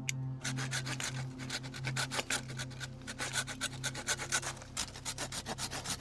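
Hand saw cutting through a fallen pine branch, in quick, even back-and-forth strokes of about five a second, with a short pause about three-quarters of the way through.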